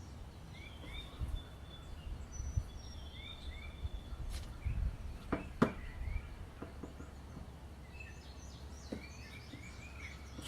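Small birds chirping and whistling over a low background hum, with a couple of sharp clicks about five and a half seconds in.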